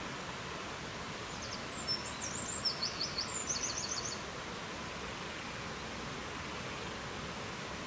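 Steady rushing wind noise with a small songbird singing one high, quick phrase of short repeated notes, from about one and a half to four seconds in.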